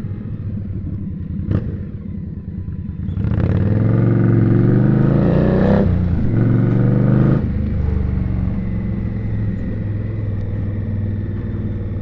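Indian Scout V-twin motorcycle engine pulling away under throttle. The revs rise, drop at a gear change about 6 seconds in, rise again, then settle into a steady cruise.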